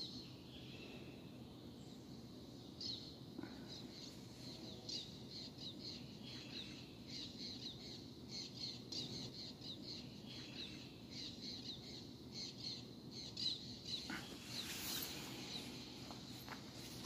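Small birds chirping: a busy run of short, high chirps, several a second, from about three seconds in until near the end, over a steady low background rumble.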